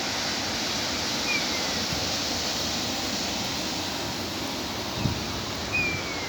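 Steady rush of running stormwater, with two short falling chirps over it and a brief low buffet of wind on the microphone about five seconds in.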